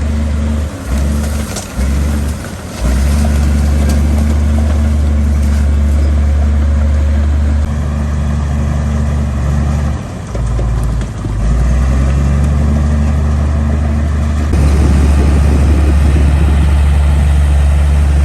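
Heavy diesel engine of earthmoving machinery running steadily, with brief drops in level about a second in, around two seconds and near ten seconds, and running louder from about fourteen and a half seconds on.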